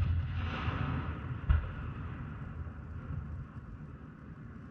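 Aerial firework shells: the echoing rumble of a burst with a crackling hiss, a second, smaller boom about a second and a half in, then a fading low rumble.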